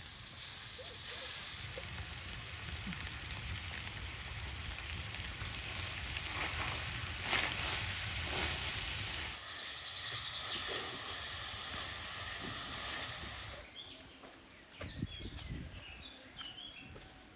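Minced meat and chopped onion sizzling in a large wide pan over a fire, stirred with a wooden spatula, a steady frying hiss. About 14 seconds in it stops abruptly, leaving a quieter outdoor background with a few short high chirps.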